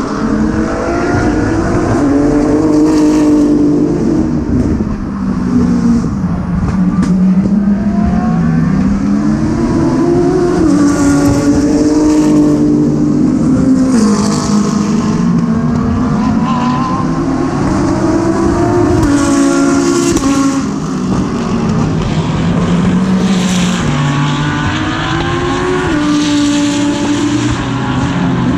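GT3 race car engine heard from on board at racing speed, its pitch climbing through the gears and falling in steps on downshifts, again and again around the lap.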